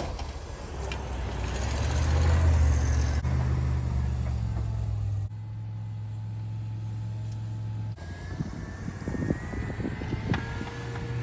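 Plow truck engine running under load while pushing snow. The engine note swells over the first few seconds and changes abruptly twice; near the end a faint high whine and a few knocks come in.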